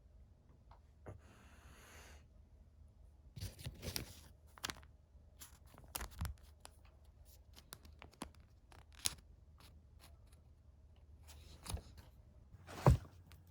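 Snack packaging being handled: a short tearing rustle about a second in, then scattered crinkles and clicks, the sharpest near the end.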